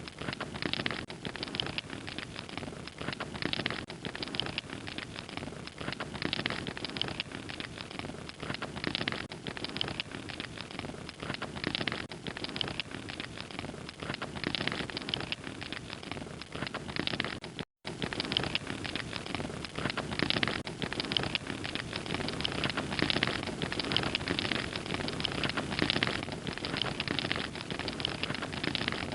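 Fire crackling steadily, with dense irregular pops and snaps over a soft rushing hiss. The sound cuts out for a split second about two-thirds of the way through.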